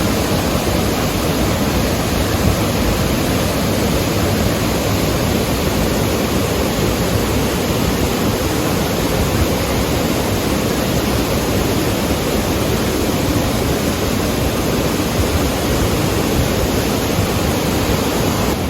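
Waterfall pouring, a loud, steady rush of falling water with no breaks.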